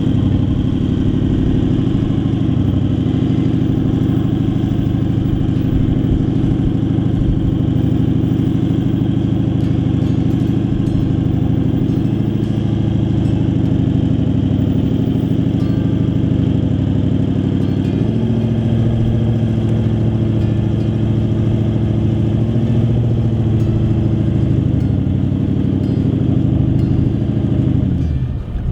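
Toyota LandCruiser 200 series engine running steadily under load in soft sand with crawl control engaged, making no headway. The engine note steps lower about eighteen seconds in.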